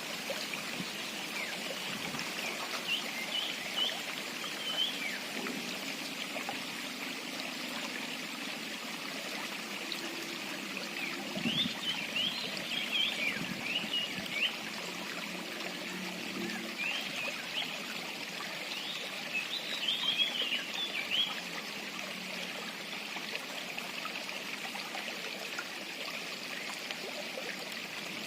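Quick, high chirping calls of a small songbird, the cipoh (common iora) used as a lure call, in three bouts about 3 s, 12 s and 18 s in, over a steady rushing noise like running water.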